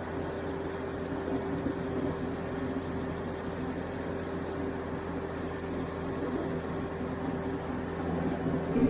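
TYM T574 compact tractor's diesel engine running steadily, with a constant even drone and no change in speed.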